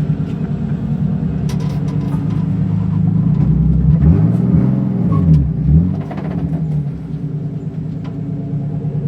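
BMW E36 M3 race car engine running steadily, then revving down and up a few times in the middle before settling back to a steady note.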